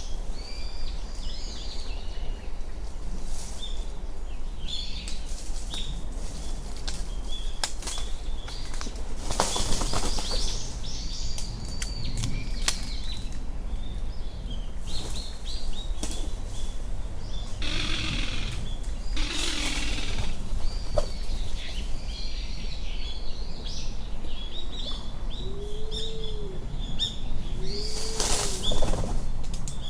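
Japanese wood pigeon giving a harsh rattling call twice in quick succession, 'garara, garara', a little over halfway through. Small birds chirp high and continually throughout.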